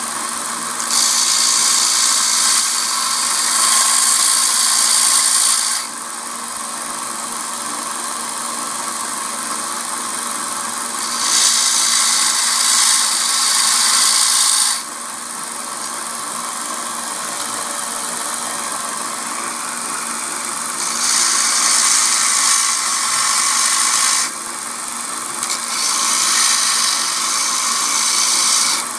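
Belt sander running steadily with a 40-grit belt, as a steel knife blade's broken tip is ground back to a point. There are four grinding passes of three to five seconds each, loud hiss over the motor's hum, and the belt runs free in between.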